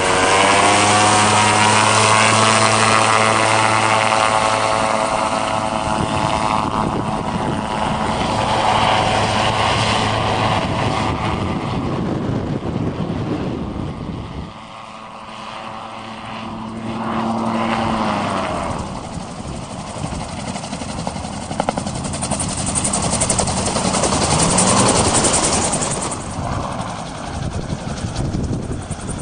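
MT-03 gyrocopter's engine and pusher propeller running in flight, their pitch sliding up and down as power changes. Power eases off about halfway through, then builds again.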